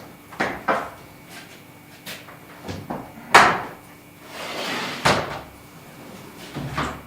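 A sliding door being worked on its track: several knocks and bangs, the loudest about three and a half seconds in, then a short rolling slide that ends in a knock as the door stops.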